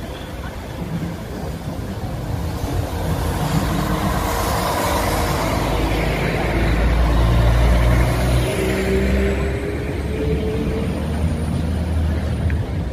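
A Northern Class 195 diesel multiple unit passing close by: its engine rumbles under the noise of its wheels on the rails. The noise grows to a peak about halfway through, and a faint rising whine comes in about two-thirds of the way in.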